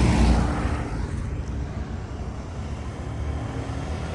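Road traffic passing close by: a vehicle goes by at the start and fades away over about a second, and another approaches, growing louder, near the end.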